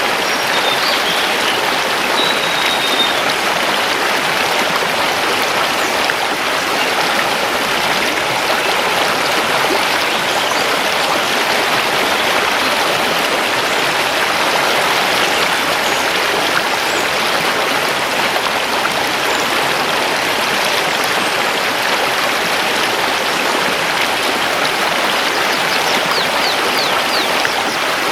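River water flowing over stones, a steady, even rushing. A few faint high bird chirps sound in the first few seconds.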